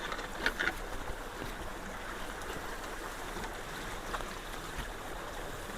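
Creek water rushing steadily into and through a partly cleared roadside culvert, with a few faint knocks about half a second in.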